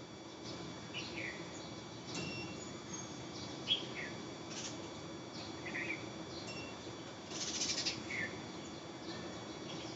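Birds chirping in short falling notes, about one a second, over a steady high insect drone. A brief harsh, noisy call comes about three-quarters of the way through.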